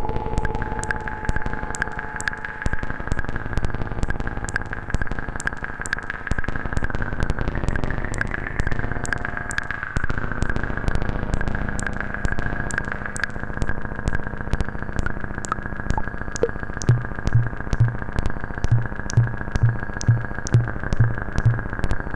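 Eurorack modular synthesizer patch: dense, irregular crackling clicks meant to evoke rain, over a held high drone. About three-quarters of the way through, a low bass tone enters, pulsing about twice a second.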